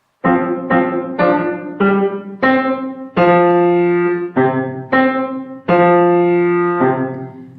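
Piano playing a rhythmic passage of struck chords, about a dozen attacks with some held longer, dying away near the end.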